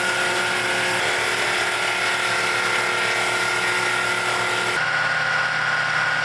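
Circle sawmill running, a loud steady machine noise with a high steady tone through it. About five seconds in the sound shifts abruptly and the high hiss drops away.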